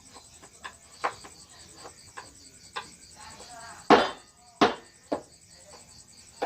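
Wood carving with a mallet and chisel: irregular sharp knocks, the two loudest about halfway through.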